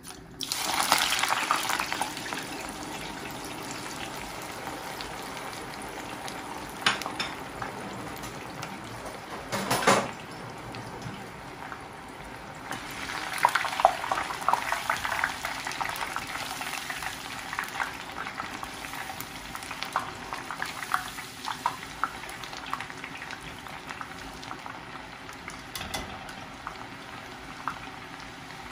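Sliced red onions dropped into hot oil in a deep pot, bursting into loud sizzling just after the start, then frying with a steady bubbling sizzle and many small crackles. A wire skimmer stirs them, and there is a brief louder burst about ten seconds in.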